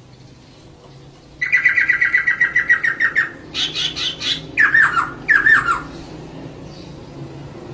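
Female poksay (laughingthrush) calling: a rapid run of about ten even chirps a second, then a short higher burst and two quick downward-sliding notes.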